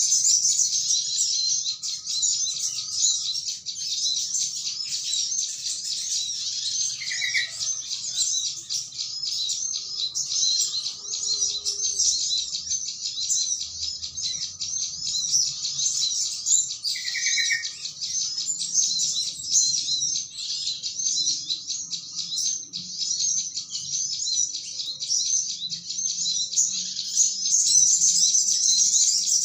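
Dense, unbroken high chattering of a noisy flock of small birds. About 7 s and 17 s in, a yellow-vented bulbul gives a short, lower bubbly phrase. This is a bird-lure call recording.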